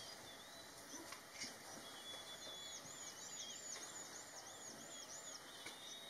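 A bird calling faintly over a steady outdoor hiss: about two seconds in, a quick series of about ten high, arching notes, roughly three a second, lasting about three seconds.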